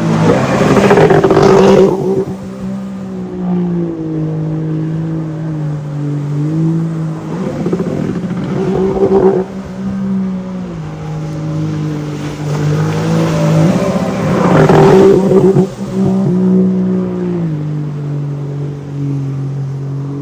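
Jet ski engine running, its pitch stepping up and down with the throttle. Louder bursts of rushing noise come about a second in, around nine seconds and around fifteen seconds.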